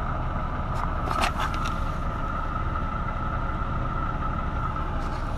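Diesel truck engine idling steadily with a constant whine over a low rumble, and a few light clicks about a second in.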